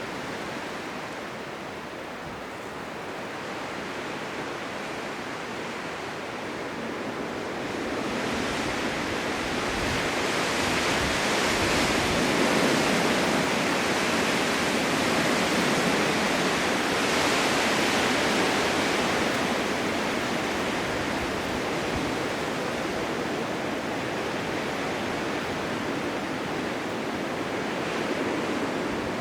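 Blizzard wind: a steady rushing noise that swells into a stronger gust about eight seconds in, then eases off somewhat.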